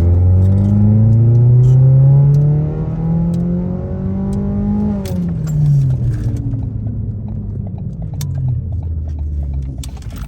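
Straight-piped 2016 Ford Focus exhaust, with the muffler and resonator removed. The engine note climbs steadily in pitch for about five seconds, then drops away sharply as the revs fall and settles to a lower, rougher drone.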